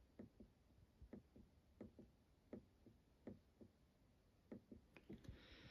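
Faint clicks of a thin push button for the ambient lighting being pressed again and again, mostly a click on press and another on release, roughly once a second; each press steps the light to its next colour.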